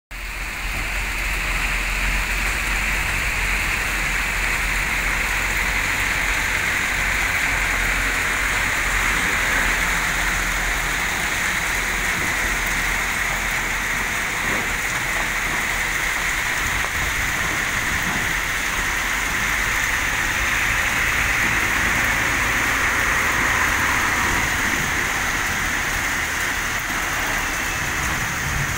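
Steady rain falling: a constant loud hiss with no break. A low engine rumble from the stopped trucks sits under it through roughly the first third.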